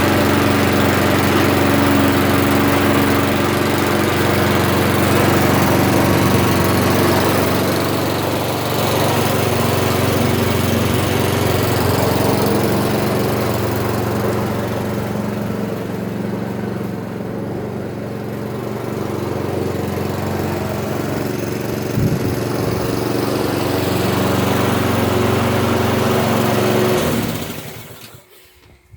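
Small petrol lawnmower engine running steadily, easing off somewhat in the middle, with a single knock, then shut off near the end and dying away.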